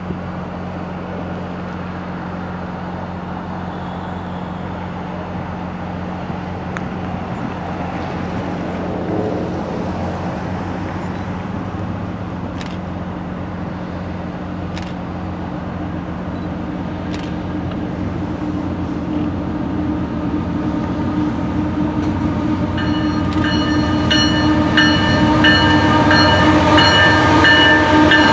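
Canadian Pacific diesel locomotives hauling a coal train approach with a steady engine drone that grows louder. In the last few seconds, as they come alongside, a chord of high tones sounds several times: the train horn.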